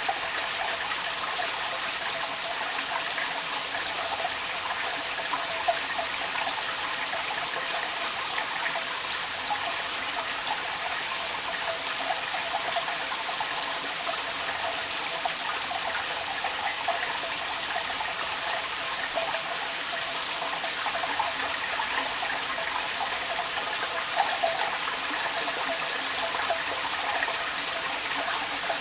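Rain falling with water running and trickling out of a downpipe, a steady splashing rush with scattered small drips.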